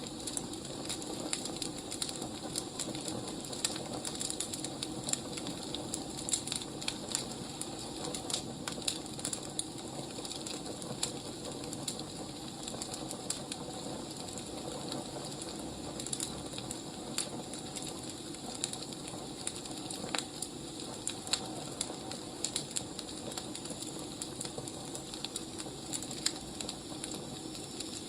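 Wood fire burning, with irregular crackles and sharp pops over a steady hiss.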